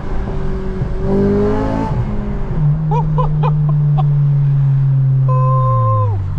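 Honda Civic Si's four-cylinder VTEC engine pulling under acceleration: its pitch climbs about a second in, holds high and steady, then drops near the end as the revs come down.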